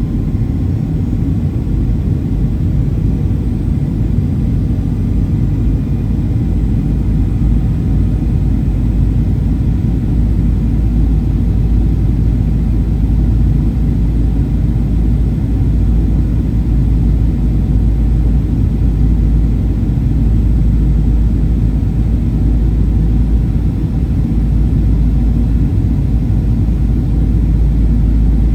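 Steady low rumble of a Boeing 737-800's cabin in flight on approach: airflow and the CFM56 turbofan engines heard from inside the passenger cabin, with no sudden changes.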